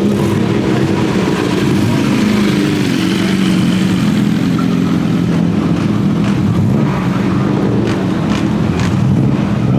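Car engine running steadily, a low even drone that holds without revving.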